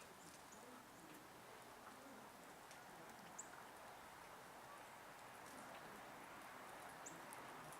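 Faint outdoor background hiss with two short, high bird chirps, one about three and a half seconds in and one near the end.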